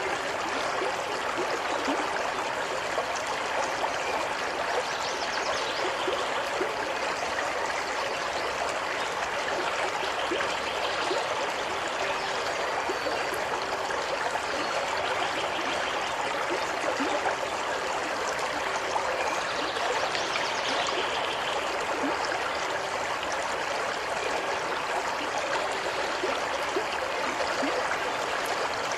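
Waterfall: water falling and running with a steady, even rush.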